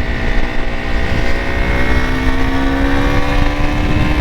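KTM RC 200's single-cylinder four-stroke engine running under way, its pitch rising slowly and steadily as the bike pulls in gear.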